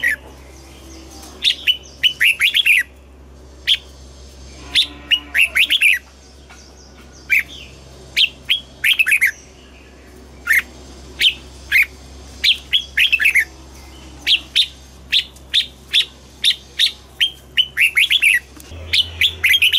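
Red-whiskered bulbul singing: short, quick phrases of bright falling notes, repeated again and again with brief pauses between them.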